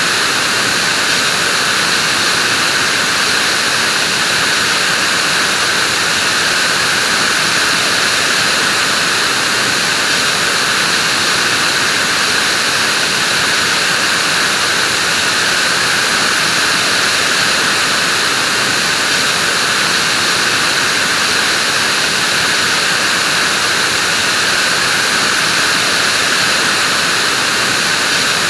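Vacuum cleaner running steadily: an even, unbroken rushing hiss with no change in pitch or level.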